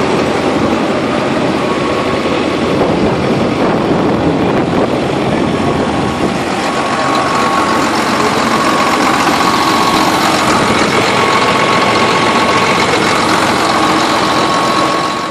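Tractor engine running steadily, with a faint steady whine over it.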